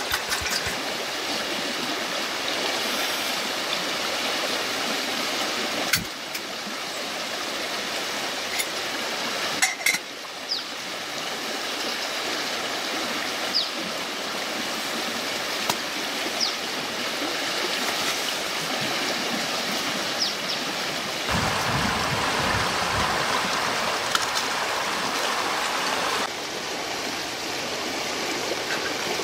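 Steady rush of running stream water, with a few sharp clicks and knocks. The water sound shifts abruptly in tone a few times, becoming fuller about two-thirds of the way through.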